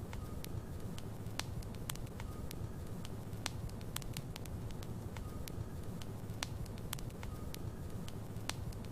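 Log fire burning in a fireplace: a steady low rumble of flames with frequent sharp crackles and pops from the burning wood. A faint short whistle recurs every two seconds or so.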